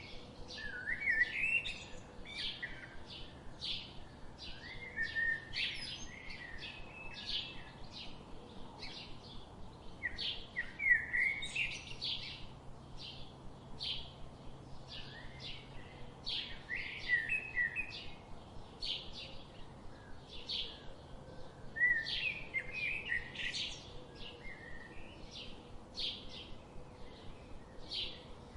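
Birds singing: one bird repeats a short, high note about twice a second, while another breaks in several times with brief warbling phrases.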